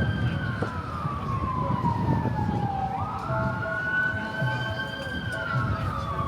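Emergency vehicle siren in wail mode: the pitch slides slowly down, sweeps up quickly about three seconds in, holds, then slides down again, over low city street noise.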